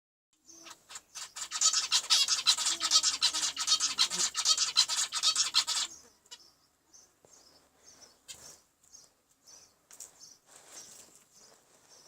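Zebra finches chirping: a loud, fast run of sharp chirps for about four seconds, then scattered fainter calls.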